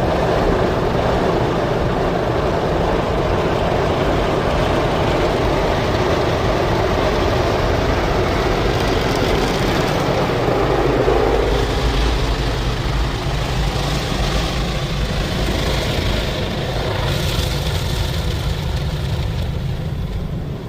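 Rotating brushes of a WashTec SoftCare SE rollover car wash scrubbing over the car during the brush wash, heard from inside the cabin as a loud, steady rushing. Extra hiss comes in during the second half.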